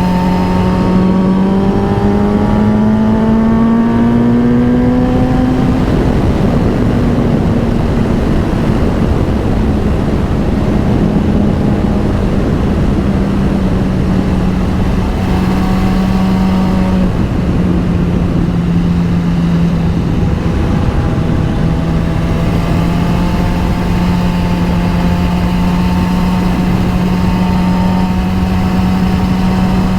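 Motorcycle engine running under way with constant wind rush. The engine note climbs over the first few seconds, then holds fairly steady, dropping a little in the middle before picking up again.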